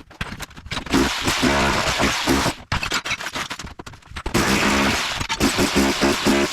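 Bosch Bulldog Max SDS-Plus rotary hammer with a tile chisel bit hammering rapidly, breaking up floor tile and cement board. It runs in two bursts, about a second in and again from about halfway, with a short pause of scattered clicks and scraping between them.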